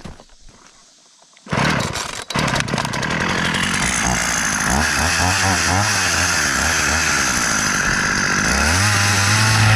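Gasoline chainsaw starting about a second and a half in and then running steadily, its engine pitch shifting and rising near the end as it cuts a board at a slight slant.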